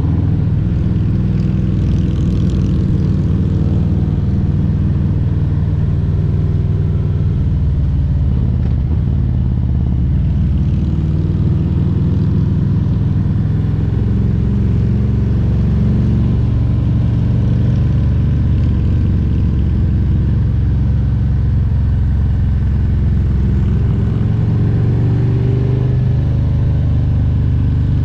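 Harley-Davidson Milwaukee-Eight 114 V-twin engine running steadily under way on a Road Glide Special, its pitch rising and falling slightly with the throttle.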